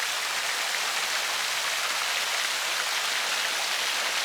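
Steady hiss of falling, splashing water.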